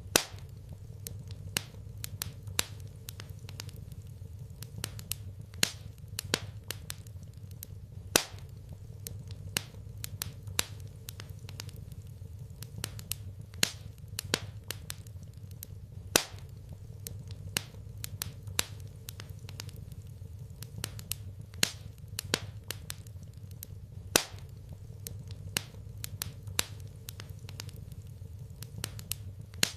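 Fire crackling in a fireplace: irregular sharp pops and snaps, a few much louder than the rest, over a steady low hum.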